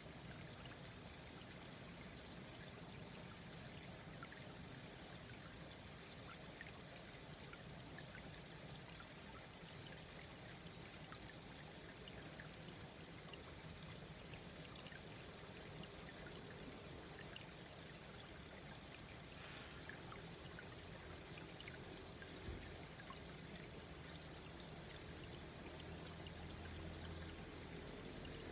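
Small brook babbling and trickling softly in a steady, gentle flow. A low hum grows near the end.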